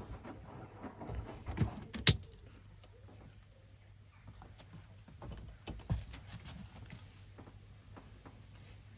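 Hoover DXOA610AHFN-80 washing machine at the start of its cycle, its drum turning slowly with a low steady hum while it senses the load. A few sharp clicks and knocks come in the first two seconds, and one more about six seconds in.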